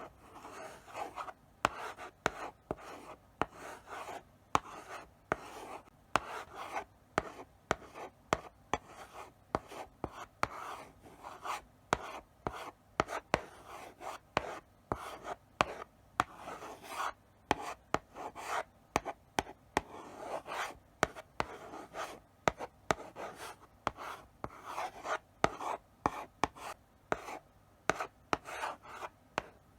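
Chalk writing slowly on a blackboard: short scratchy strokes with frequent sharp taps as the chalk meets the board, in an uneven rhythm with brief pauses between letters.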